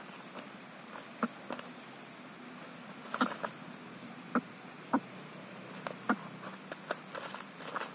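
Irregular light clicks and taps, about a dozen scattered unevenly, over a faint steady hum.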